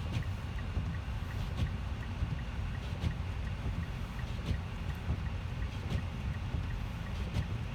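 Car driving through a snowstorm, heard from inside the cabin: a steady low road and engine rumble, with a faint tick about every one and a half seconds.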